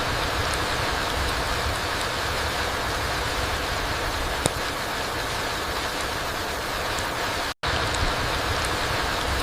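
Steady rain falling through forest trees onto the ground, an even hiss with a deep low rumble underneath. There is one sharp tick about halfway through, and the sound drops out to silence for a split second about seven and a half seconds in.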